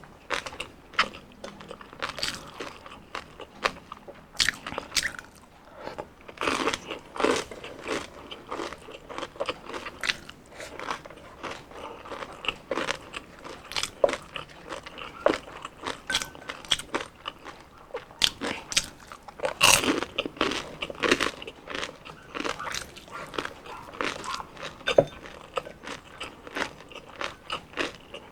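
Close-miked crunching and chewing of deep-fried crispy pata and crispy chicken skin, with irregular crackly bites, a few louder crunches among them.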